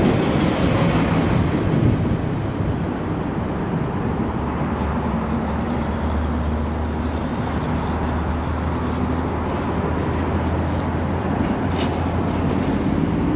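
City street traffic heard from a moving scooter, a steady rush of road and wind noise. A steady low hum joins about four seconds in and eases off near the end.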